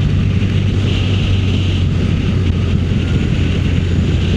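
Motorcycle riding at steady road speed: a constant engine drone under the rush of wind and road noise.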